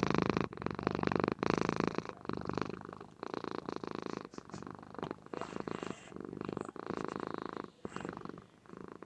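Domestic Somali cat purring, a fast pulsing rumble, louder for the first couple of seconds and then softer and more broken.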